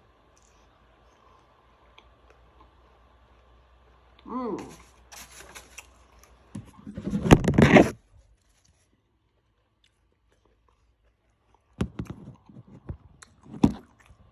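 Close-up eating sounds from a chicken taco: bites and chewing with crunching and crackling, loudest in a burst about seven seconds in, then a few more crunches near the end. A short hummed 'mm' comes just before the first burst.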